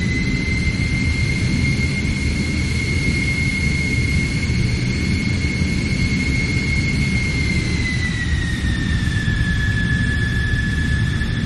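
Jet aircraft engine running steadily: a high whine over a low rumble, the whine dropping slightly in pitch about eight seconds in.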